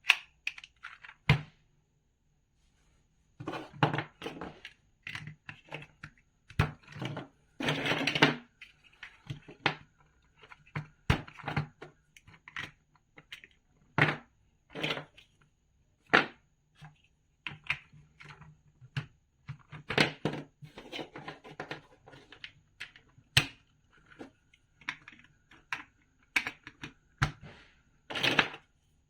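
Plastic building bricks being handled and snapped together: irregular sharp clicks and small clattering taps, with a longer rattle of pieces being rummaged about a quarter of the way in.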